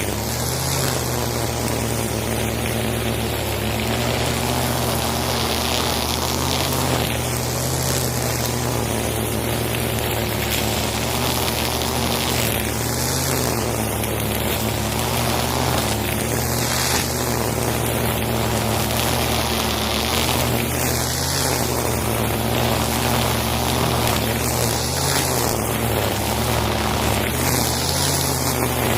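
Husqvarna 541RB backpack brush cutter's two-stroke engine running steadily, with a swishing hiss about every four seconds as the nylon trimmer line sweeps through grass.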